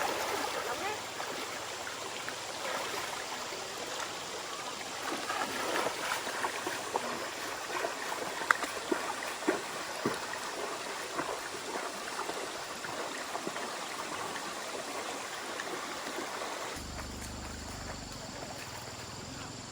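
Water of a stream flowing and trickling, with a few small knocks and splashes. A low rumble joins near the end.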